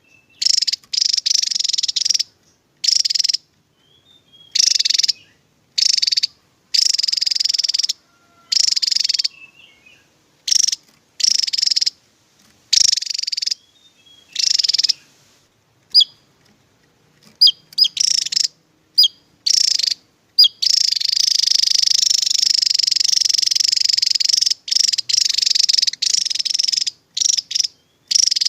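Javan tesia singing its rapid, high-pitched burst song: a run of short dense bursts separated by brief pauses, a few single sharp notes past the middle, then an almost unbroken stretch of song in the last third.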